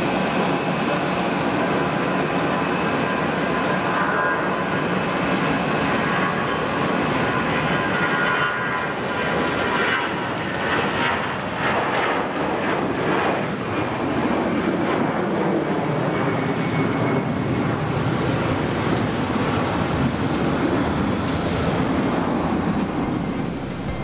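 Airbus A320's jet engines at takeoff power: a loud, steady rush of noise with high whining tones, the tones sweeping in pitch from about halfway through as the aircraft passes.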